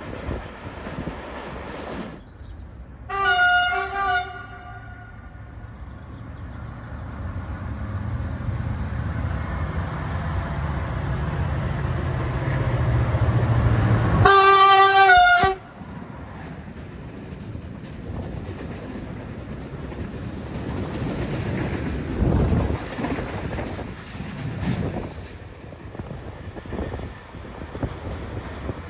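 A Medway class 335 (Euro 4000) diesel locomotive hauling a heavy steel-coil freight train: two short horn toots a few seconds in, then an engine rumble that builds as it approaches, a louder horn blast of about a second around halfway, and the rolling rumble of the train passing.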